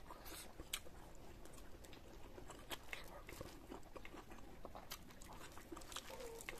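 Close-miked eating sounds: a man chewing a mouthful of rice and pork, faint, with scattered sharp mouth clicks and smacks.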